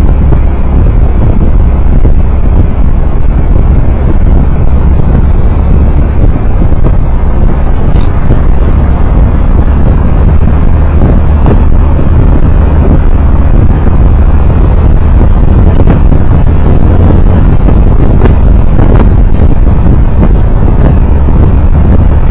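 Steady, loud low rumble of a vehicle on the move on the road, with wind noise buffeting the microphone.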